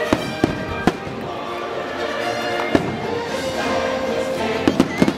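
Aerial fireworks shells bursting with sharp bangs over steady music: three bangs in the first second, one near the middle and a quick cluster of three near the end.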